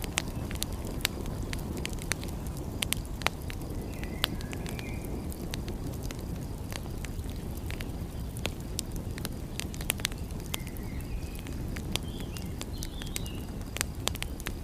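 Wood fire crackling, with frequent sharp pops and snaps over a steady low rumble. A few faint high chirps come about a third of the way in and again near the end.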